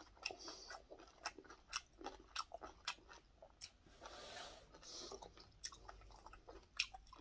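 A person chewing a mouthful of food close to the microphone, with irregular small crunches and wet mouth clicks. There is a brief soft rustle about four seconds in.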